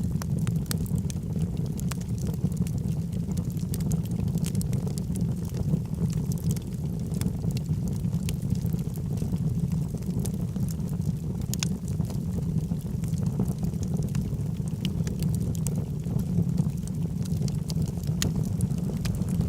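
Logs burning in a fireplace: a steady low rumble of the fire with scattered crackles and pops from the burning wood.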